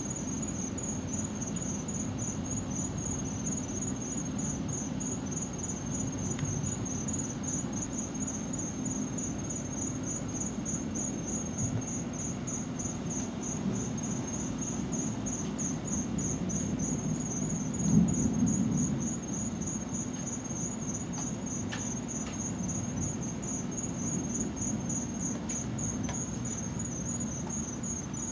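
Insects chirping in a high, rapid, even pulse, over a low rumble of distant thunder that swells briefly about two-thirds of the way through.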